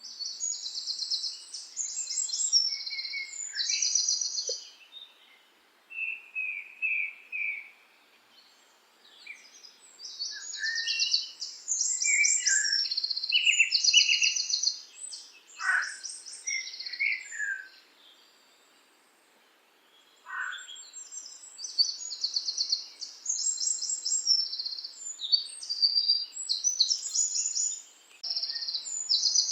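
Songbird singing: high, rapid trilled phrases repeated in three bouts of several seconds with short pauses between, mixed with a few lower chirps and quick downward-sweeping whistles.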